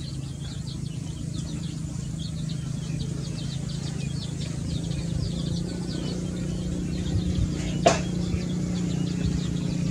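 Small birds chirping rapidly and continuously over a steady low hum, with one sharp knock about eight seconds in.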